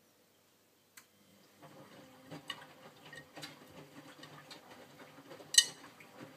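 Miele W562 front-loading washing machine in its main wash: after a second of silence and a single click, the drum turns with its motor humming low while the wet laundry tumbles with a light patter and small irregular clicks. There is one sharp, louder click about five and a half seconds in.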